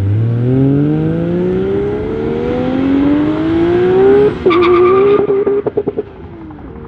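Toyota Supra MK4's 2JZ inline-six with a big single turbo at full-throttle launch, its note climbing steadily. About four seconds in the pitch drops at an upshift, with a rapid run of sharp cracks, and the engine fades as the car pulls away.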